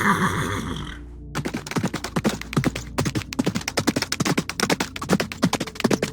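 A horse's whinny ends about a second in. A fast, irregular run of sharp taps and knocks follows and keeps on.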